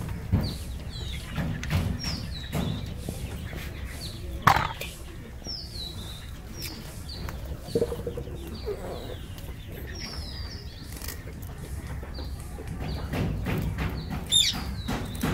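Birds chirping in the background, short falling chirps repeating again and again, with sharp clicks of kitchen scissors snipping through a climbing perch's spiny fins near the start and again near the end, and one loud knock about four and a half seconds in.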